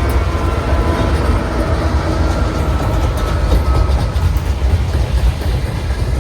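Train cars rolling past close by: a steady, loud low rumble on the rails, with faint clicks and thin ringing tones from the wheels.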